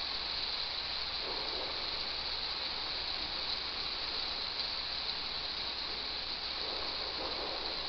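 Steady hiss of rain.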